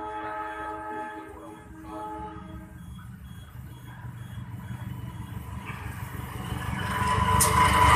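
A passenger train's horn sounds for about three seconds. Then the rumble of the train grows steadily louder as it approaches and runs through the station, with loud wheel-on-rail noise near the end.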